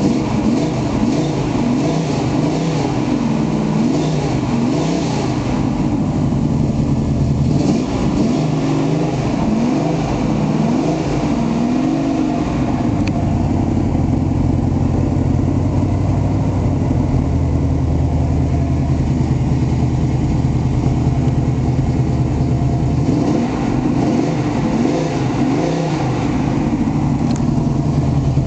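Pontiac 400 V8 with a four-barrel carburettor, headers and dual exhaust, running with a low rumble. In the first half its pitch rises and falls several times as the throttle is blipped, then it settles into a steady idle.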